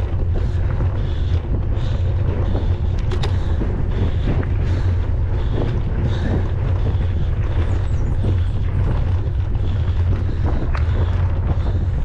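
Wind buffeting the microphone of a mountain bike rider's camera, a heavy steady rumble, with scattered clicks and rattles from the bike running over a forest trail.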